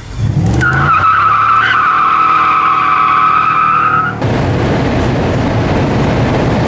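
A Pontiac Grand Prix GXP's 5.3-litre LS4 V8, muffler deleted, revs up as the tires spin, giving a steady high-pitched tire squeal for about three and a half seconds. The squeal cuts off suddenly, giving way to a loud, even rush of engine and road noise at speed.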